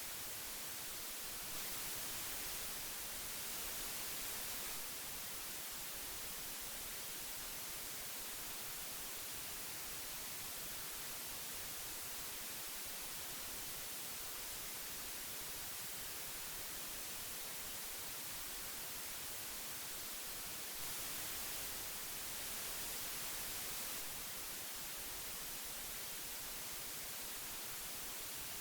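Old magnetic tape hiss: a steady, even hiss weighted toward the high end, swelling slightly twice, about two seconds in and again about twenty-one seconds in.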